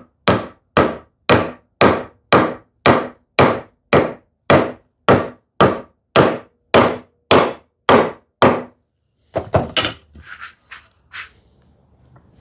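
A wooden rail's tenon being driven into its mortise with about sixteen even blows, roughly two a second, the joint going in tight; the blows stop about three-quarters of the way in and are followed by a few light knocks.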